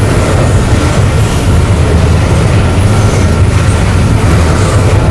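Freight train rolling past, a loud, steady rumble of wheels on rail.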